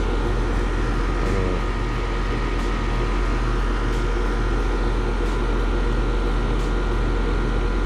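Split-system air conditioner's outdoor condensing unit running steadily on its newly replaced compressor, a constant low hum with a fan's whoosh and faint soft ticks about every second.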